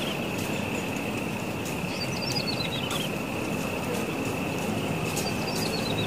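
A small bird, called ciblek sawah or the klik-klik bird, sings twice, each time a quick run of high notes falling in pitch, about three seconds apart. Under it run a steady rushing noise and a thin, steady high tone.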